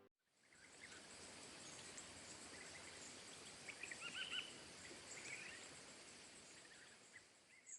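Faint bird chirps over a quiet background hiss, with a short run of quick chirps about four seconds in.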